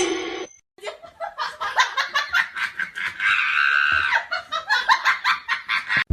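A person laughing hard in quick, rapid bursts, rising to a high-pitched squeal about three seconds in.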